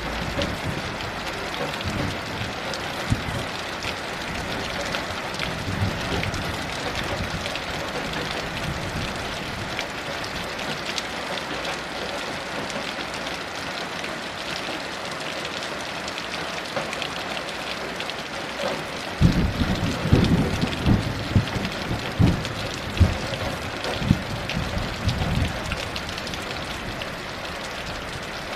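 Heavy rain falling steadily. About two-thirds of the way in, a low rumble of distant thunder rolls in and swells in several peaks for some seconds before fading back under the rain.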